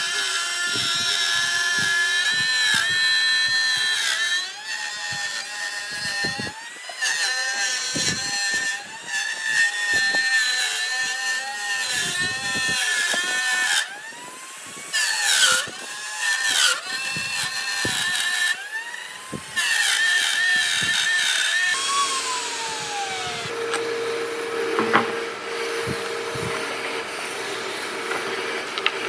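Electric power tool cutting wood: a high motor whine that sags in pitch again and again as it bites into the wood and recovers, with a few short breaks. About 22 seconds in it winds down with a falling whine, and a lower steady hum carries on.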